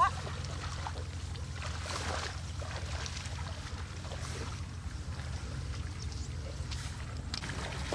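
A small engine running steadily at an even speed, with faint rustling over it.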